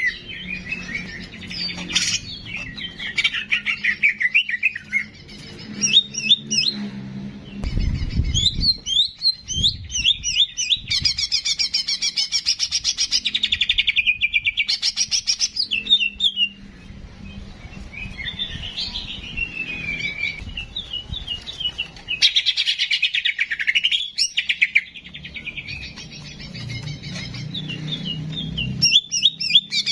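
Caged songbird singing on a masteran tutor recording: fast, varied chirps, trills and whistles that run on almost without a break, with a low hum underneath for stretches near the start and near the end.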